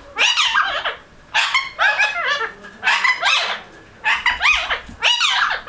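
Pet parrot chattering and squawking in about five quick bursts of bending, warbling calls with short pauses between them.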